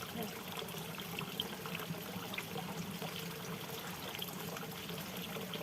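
Running water trickling and pouring steadily, with many small drips and splashes.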